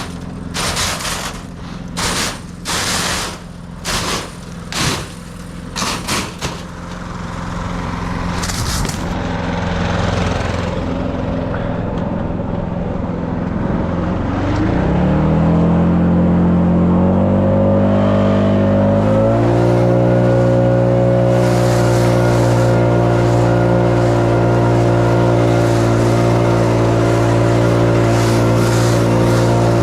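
A run of short scraping noises, then an engine that comes up about ten seconds in, revs up in steps and then runs steadily at high speed.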